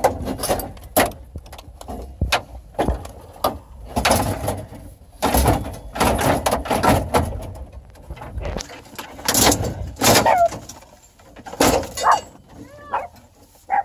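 Irregular knocks, clatters and scraping as plastic and metal parts of a GMC truck dashboard are pried and yanked at during demolition.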